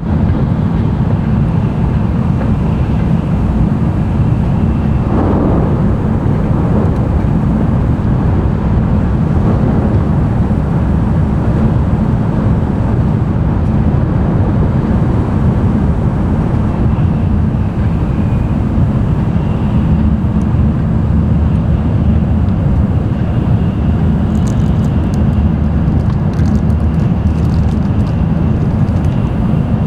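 Running noise of a Tokaido Shinkansen N700-series train at speed, heard inside the passenger cabin: a steady low rumble with a brief louder swell about five seconds in.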